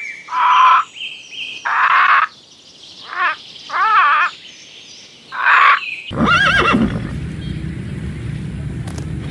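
Five short animal calls with a wavering pitch, then a horse whinnying once, a quavering call that falls in pitch, over a steady low rumble that runs on to the end.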